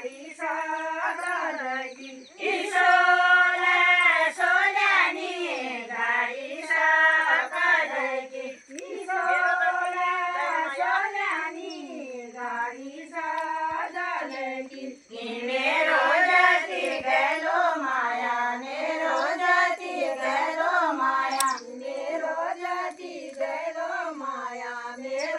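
A high voice singing a melody alone, with long held notes that waver and slide. No instruments can be heard.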